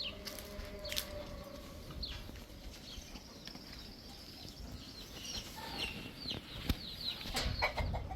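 Chickens clucking, with many short, high bird chirps and calls scattered throughout.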